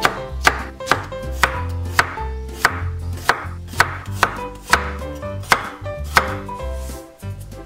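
Kitchen knife slicing peeled garlic cloves into flat slices on a bamboo cutting board, with crisp knife strikes about twice a second that stop near the end.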